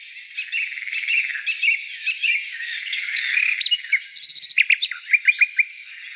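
Several small birds chirping and calling together in a dense chorus. Around the fourth to fifth second comes a quick series of high repeated notes, followed by a run of louder rapid chirps.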